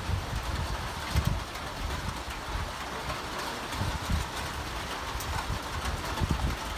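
Steady rain hiss with irregular low rumbles underneath.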